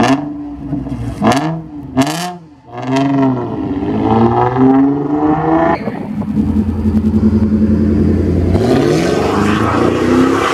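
Car engine revving: several quick blips in the first few seconds, then held steady at high revs, and rising again near the end.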